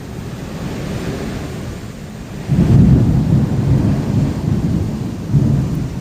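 Thunderstorm with strong wind and rain hissing steadily. A loud low rumble sets in suddenly about two and a half seconds in, swells again near the end, then eases.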